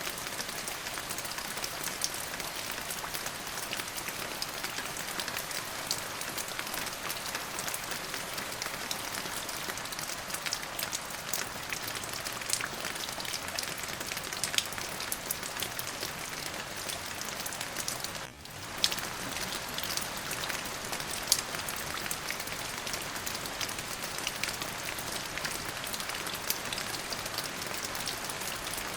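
Steady rain: an even hiss with many distinct drop ticks scattered through it. The sound dips out for a split second about two-thirds of the way through.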